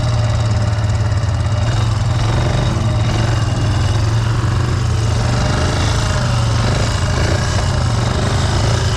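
ATV engine running steadily, with a constant low hum and no big changes in revs.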